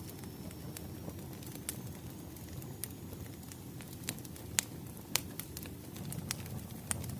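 Wood fire crackling: a steady low rumble of burning logs with sharp pops scattered throughout, the two loudest a little past four and a half seconds and just after five seconds.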